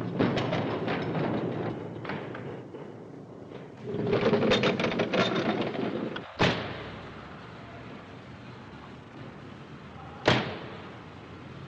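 Railway carriages being shunted: metallic rattling and clanking, a louder noisy passage, then two sharp bangs, one in the middle and one near the end, each ringing away briefly.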